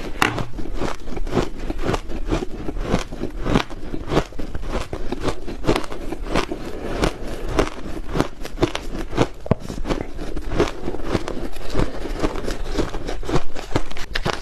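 Ice being bitten and chewed close to the microphone: a dense, continuous run of crisp crunches and crackles.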